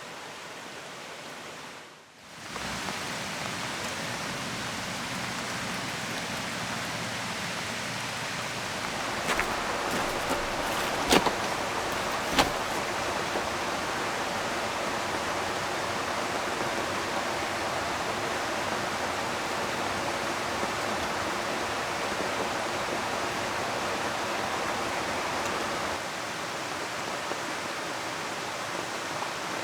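Steady rushing of a flowing river mixed with falling rain. It drops out briefly about two seconds in and swells a little louder around nine seconds, with a few sharp clicks between about nine and twelve seconds.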